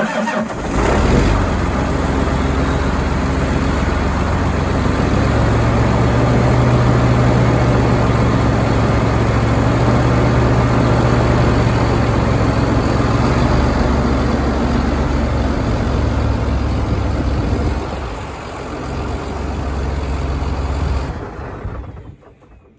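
Tractor diesel engine running just after an oil change, loud and steady, its note rising about five seconds in and dipping near eighteen seconds before it is shut off near the end.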